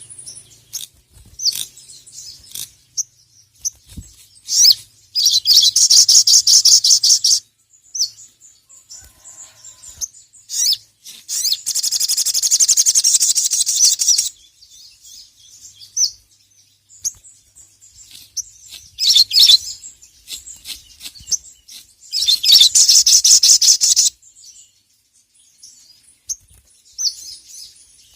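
Sogon (sogok ontong) sunbird singing in full voice: high-pitched, rapid chattering trills in three long loud bursts, with short sharp chirps between them.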